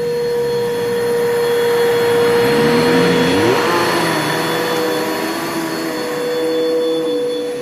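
Bissell PowerForce Bagless 6583 upright vacuum cleaner running, with a steady motor whine over the rush of air. A few seconds in its sound swells and a lower tone slides up, then settles back.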